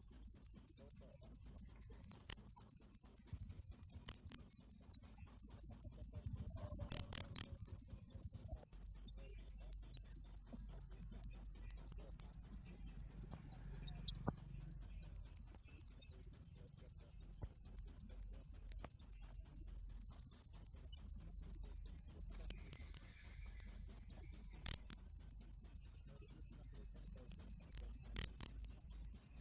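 Cricket chirping steadily in a fast even rhythm, about five high-pitched chirps a second, with a brief break about nine seconds in.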